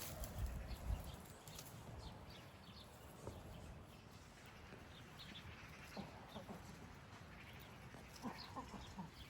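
Faint farm-animal calls: a short call about six seconds in and several more near the end, among scattered light knocks and a low rumble in the first second.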